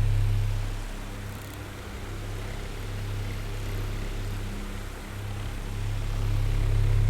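Oscillating electric fan running, a low motor hum with a whir of airflow. It fades about a second in and swells back near the end as the oscillating head turns away and back.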